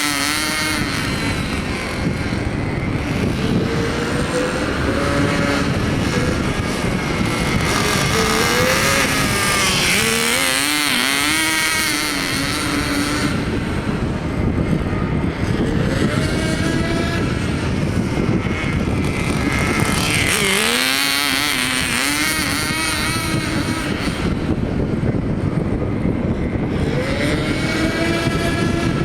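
Small .09 nitro engine of a Kyosho Spada Mini Cooper S 1/10-scale RC car running in on its break-in run. Its pitch rises and falls repeatedly as it revs, with sweeping drops in pitch several times.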